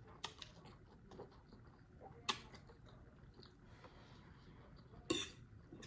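Quiet eating of ramen: a few faint clicks and a sharp tap about two seconds in, then a short cough-like throat sound near the end.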